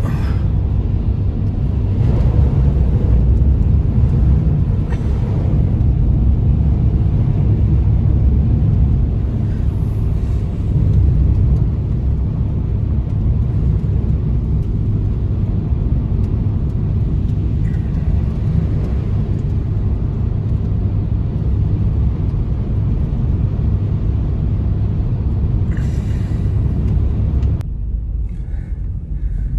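Strong blizzard wind, heard as a loud, steady low rumble with a few faint knocks.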